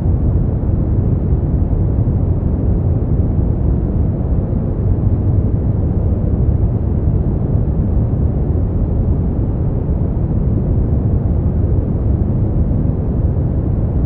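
Continuous brown noise: a deep, even hiss weighted heavily toward the low end and fading away in the highs, holding steady without change.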